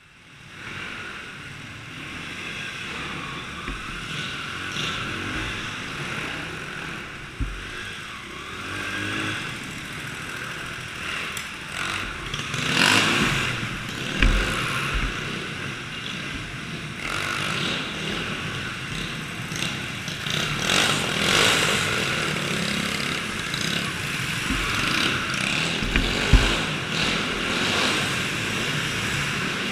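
Small engines running and revving, swelling louder and fading away as they pass, with low thumps on the microphone.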